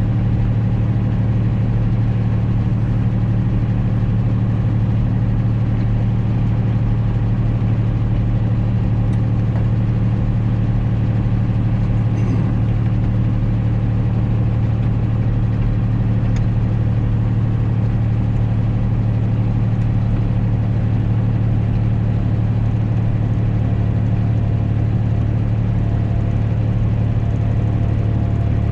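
John Deere 3140 tractor's six-cylinder diesel engine running at a steady, unchanging speed. The owner thinks its injection pump might still be a little out of time.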